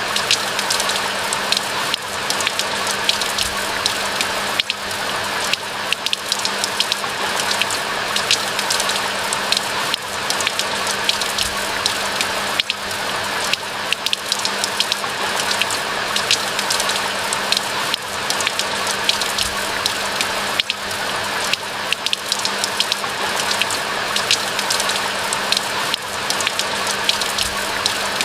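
Steady rain: an even hiss thick with many sharp, close raindrop ticks.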